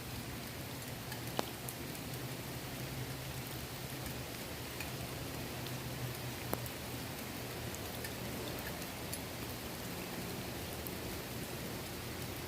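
Steady rain falling on the water of a swimming pool, an even hiss with a few louder single drop ticks, one about a second and a half in and another about six and a half seconds in.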